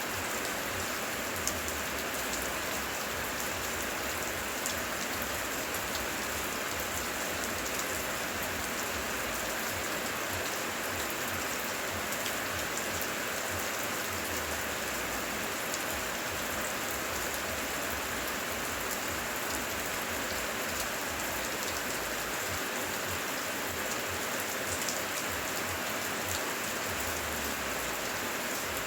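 Steady rain falling: an even hiss of rainfall with many small drop ticks and no change in strength.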